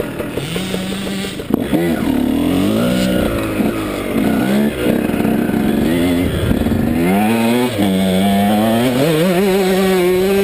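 KTM 150SX single-cylinder two-stroke dirt bike engine revving hard, its pitch climbing and dropping again and again as the throttle is worked through the gears. A single sharp knock about a second and a half in.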